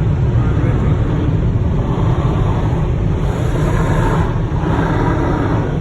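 Powerful air-dryer blowers of an automatic car wash running, a loud, steady rushing.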